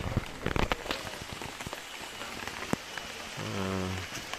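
Heavy rain falling steadily, with sharp ticks of close drops striking a corrugated roof, the loudest in the first second. A short low hum sounds about three and a half seconds in.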